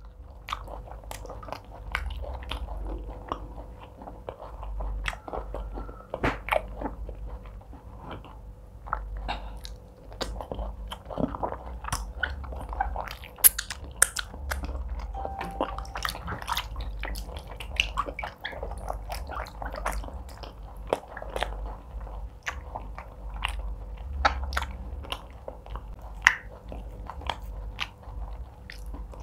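Close-up mouth sounds of someone eating fufu and egusi soup by hand: chewing and lip smacking picked up by a lapel microphone, with many small wet clicks throughout.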